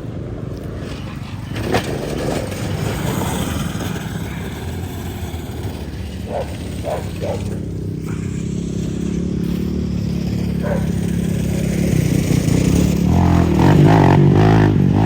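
ATV engine running and revving, getting steadily louder toward the end as the machine comes closer and picks up speed.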